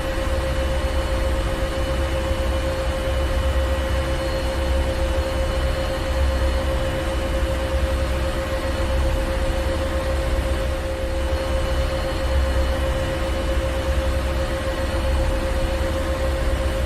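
Ship engine room machinery running steadily: a deep low rumble that swells gently every few seconds, under a constant mid-pitched drone and an even wash of mechanical noise.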